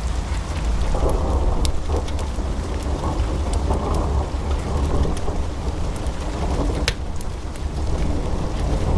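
Wood fire burning in a fireplace: a steady low rumble of flame with scattered sharp crackles and pops from the burning logs, one louder pop about seven seconds in.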